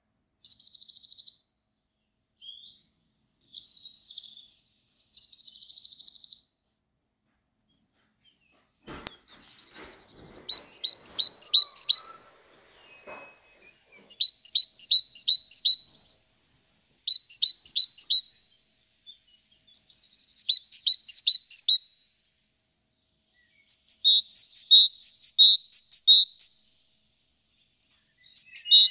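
A small songbird singing short, loud, high trilled phrases every few seconds, most of them opening with a falling note. A faint knock sounds about nine seconds in.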